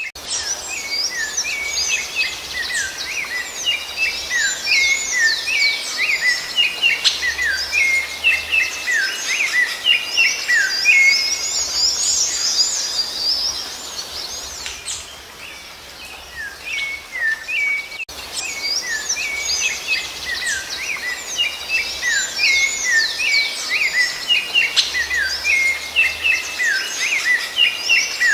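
Rufous-bellied thrush (sabiá-laranjeira) singing: rapid runs of short whistled notes that thin out about halfway through, then start up again.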